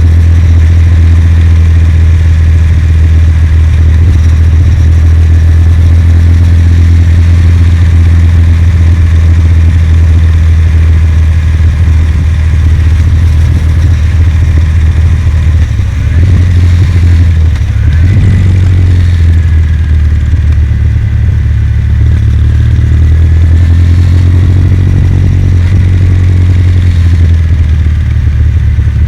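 Kawasaki W800's air-cooled parallel-twin engine running steadily while the motorcycle is ridden. Its note shifts briefly a little past halfway.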